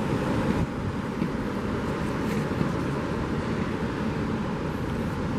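Steady, unbroken noise of sea surf washing on a beach, mixed with low wind rumble on the microphone.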